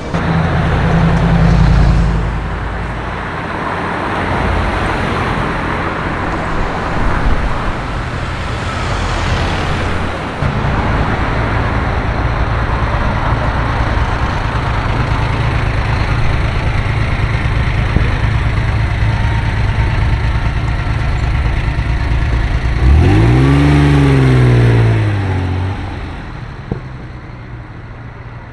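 Road traffic with car engines running close by at a steady low hum, one engine revving up and dropping back a little before the end.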